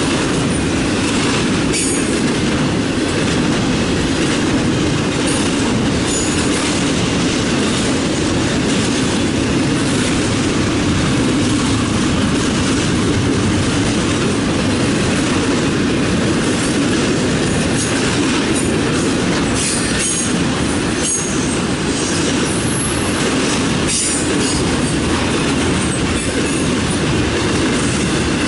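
Intermodal freight train's cars rolling past: a steady, unbroken rumble and clatter of steel wheels on the rails, with brief high-pitched wheel squeaks now and then.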